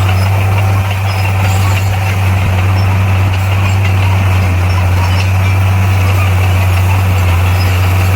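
Bulldozer's diesel engine running steadily with a deep, constant hum.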